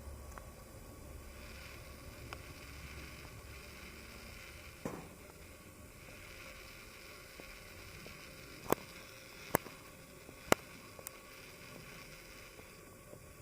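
Steady faint background noise, broken by a soft thud and then three sharp knocks about a second apart, with a fainter fourth knock just after.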